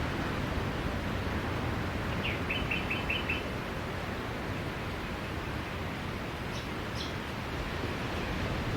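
Steady rush of sea surf with a small bird chirping over it: a quick run of about six chirps a couple of seconds in, then a few higher, sharper chirps later on.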